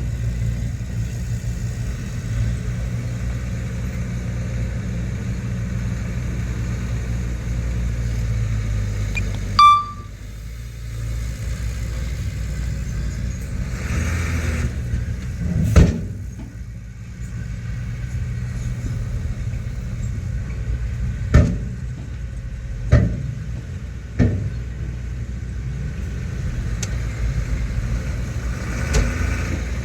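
Diesel engine of heavy earthmoving machinery running steadily, with a brief high-pitched tone about ten seconds in and several sharp knocks in the second half.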